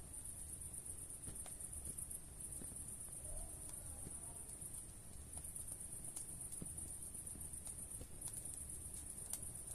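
Wood fire burning in a fireplace, with soft scattered crackles and pops over a low rumble. A steady, high-pitched insect-like trill runs through it, breaking off briefly a few times.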